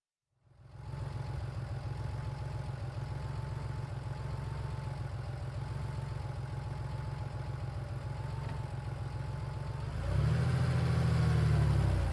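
Porsche 911's air-cooled flat-six idling steadily, coming in about half a second in. About ten seconds in it gets louder, its pitch dipping and then starting to climb as the engine takes load.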